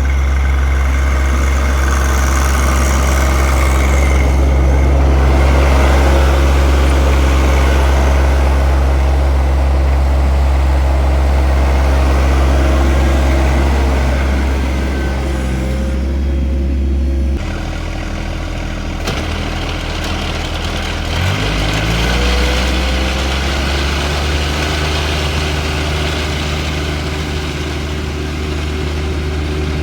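John Deere 1025R compact tractor's three-cylinder diesel running steadily. A little past halfway its sound drops and changes, and about three-quarters through the pitch rises briefly, then holds steady at a slightly higher note.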